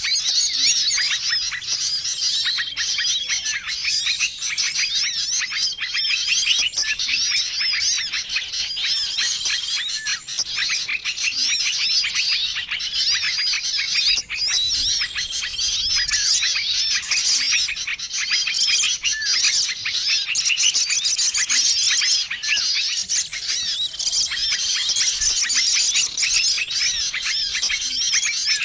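A bird-lure recording: a dense, continuous chorus of many small songbirds chirping and twittering together, with a short steady whistled note recurring every few seconds as the mix repeats.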